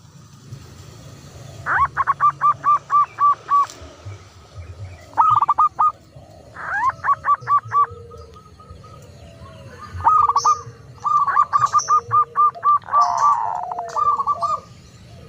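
Caged doves and other birds calling: five bursts of rapid repeated notes, each about one to two seconds long, with soft lower coos between them and a few short high chirps.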